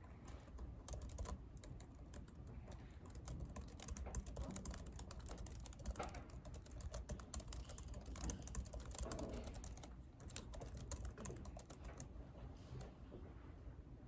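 Typing on a computer keyboard: a quick, uneven run of key clicks, with a short pause about ten seconds in before it picks up again and thins out near the end.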